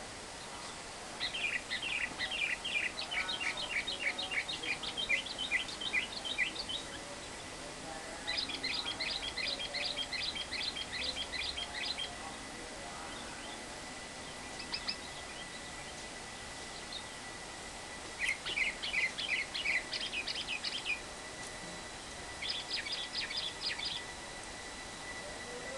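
Lovebird's long chattering 'ngekek' song: runs of rapid, high, evenly repeated chirps, each lasting a few seconds, with pauses between, over a steady background hiss.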